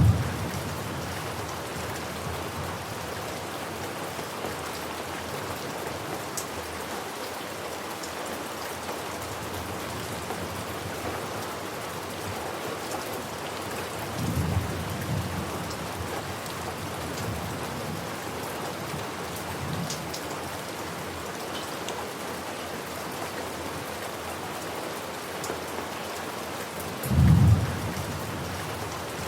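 Steady heavy rain falling, with rolls of thunder: one rumble fading just after the start, a softer one about halfway through, and a loud clap near the end.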